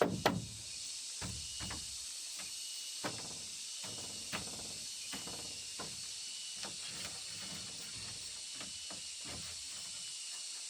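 Hammer blows on wood: a sharp knock right at the start, then faint, irregular light taps over a steady high-pitched hiss.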